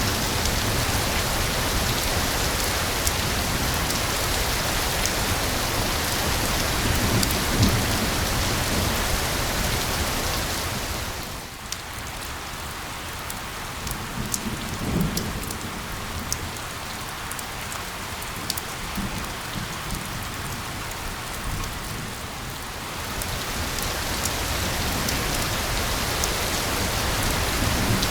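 Steady heavy rain falling on a surface, a dense hiss with individual drops ticking through it. About twelve seconds in it turns quieter and thinner for roughly ten seconds, then swells back to full strength.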